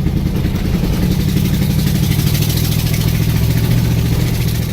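Mud truck's engine running loud and steady as the truck drives, holding an even pitch.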